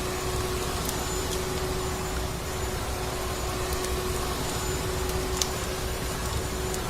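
Vacuum cleaner running steadily: an even rushing drone with a constant hum. A few sharp crackles of a wood fire sound over it, the loudest about five seconds in.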